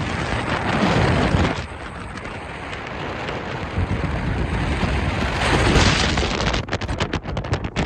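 Strong wind of about 40 mph or more buffeting the microphone: a loud rumbling rush that swells and eases in gusts, breaking into rapid crackling buffets near the end.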